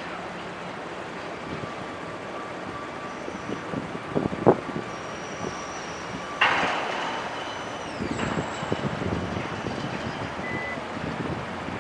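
A car on the move: a steady rush of road and wind noise, with a few knocks about four seconds in and a sudden louder surge of rush about six and a half seconds in.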